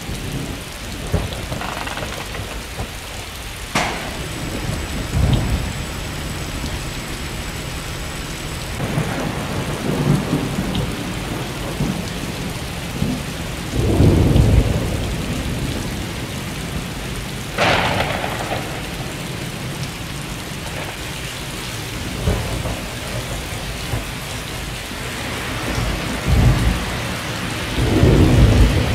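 Steady rain with thunder. There is a sharp crack about four seconds in and another near eighteen seconds, and deep rumbles swell up several times.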